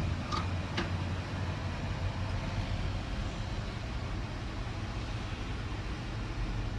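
A 6.6L Duramax turbo diesel idling steadily, with two short, sharp high chirps about half a second and a second in.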